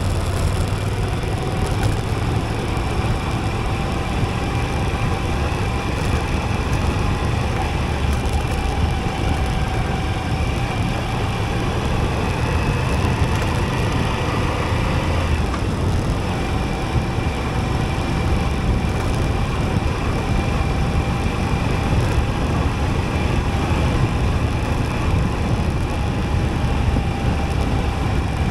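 Moto Guzzi V85TT's air-cooled transverse V-twin running steadily on the move, heard from the riding motorcycle with wind and road noise over it. The engine note breaks off briefly about halfway through, then carries on.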